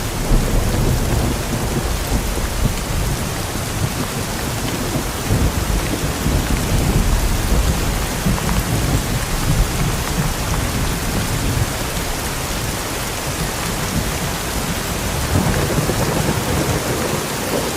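Steady heavy rain with low rumbling thunder underneath that swells and fades, loudest about a second in and again near the end.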